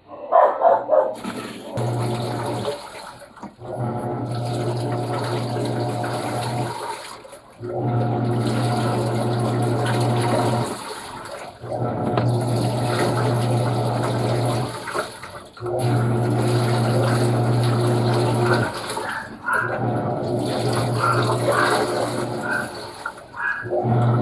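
Panasonic washing machine in its wash cycle: motor hum with churning water in runs of about three seconds, pausing briefly between runs as the drum or pulsator reverses direction.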